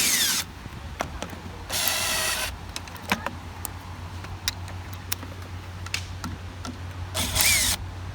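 Power drill run in three short bursts to undo fasteners, its whine falling in pitch as it winds down, with scattered clicks of metal parts over a steady low hum.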